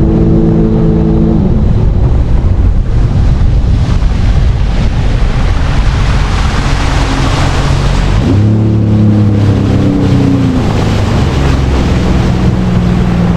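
Sea-Doo jet ski engine running at speed over rushing water, with wind buffeting the microphone. The engine note fades into the wind noise about a second and a half in, then climbs sharply about eight seconds in and eases slightly after.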